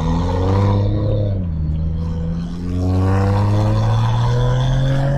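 BMW 335i's N55 turbocharged inline-six heard through a microphone at the exhaust, pulling hard through the gears. The revs climb, drop at an upshift about a second and a half in, then climb steadily again until near the end.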